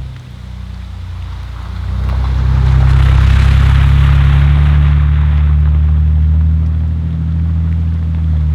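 An engine running steadily, its low hum growing louder about two seconds in, with a rushing hiss over it for a few seconds.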